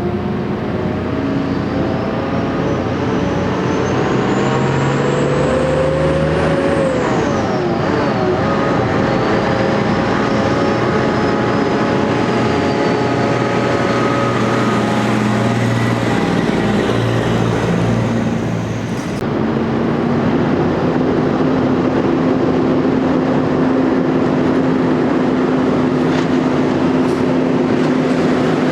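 Diesel big-rig trucks running past. Their engine note carries a high whine that rises and then falls. About two-thirds through, the sound changes abruptly to a steadier engine drone.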